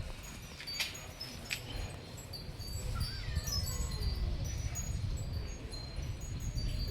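Wind chimes tinkling, with many small high notes ringing at random over a low rumble. A faint falling tone sounds about three seconds in.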